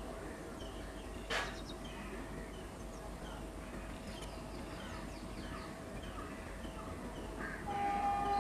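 Birds chirping and calling, with a faint steady hum underneath. A short harsh sound about a second and a half in, and a louder held tone near the end.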